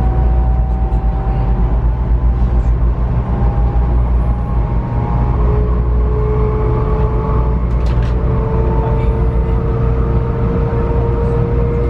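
JR West 500 series Shinkansen heard from inside the car: the Toshiba GTO-thyristor VVVF inverter and traction motors whine in several tones that rise slowly as the train gathers speed, over a steady low rumble from the running gear.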